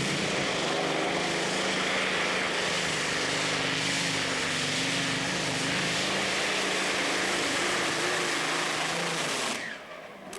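Competition pulling tractor running flat out under load during a pull: a loud, steady engine roar that cuts off sharply near the end.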